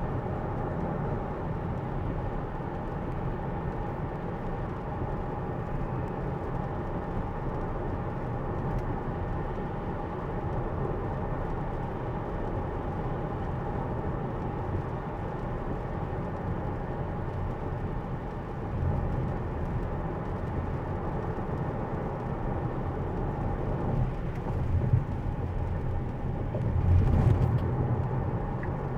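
Steady road noise heard inside a Tesla's cabin as it drives on a wet road in the rain, with tyres on the wet surface. A deeper rumble swells up about two-thirds of the way through and again near the end.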